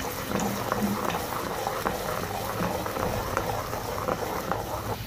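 Ground onion paste and ginger-garlic paste frying in hot oil in a karahi: a steady bubbling sizzle with many small pops and crackles.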